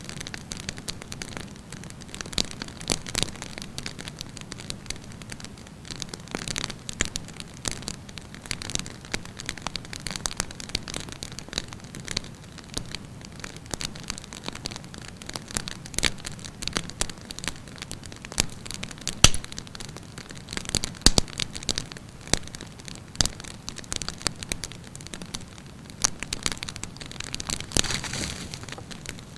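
Wood campfire burning: a steady hiss and flutter of flames with irregular sharp crackles and pops of burning wood, a couple of louder snaps in the second half.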